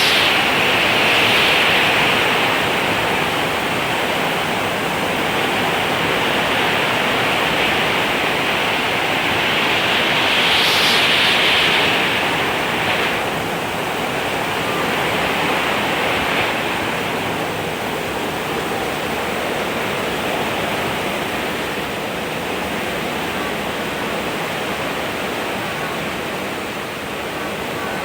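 Steady rain falling, a dense even hiss, swelling a little heavier near the start and again about ten seconds in.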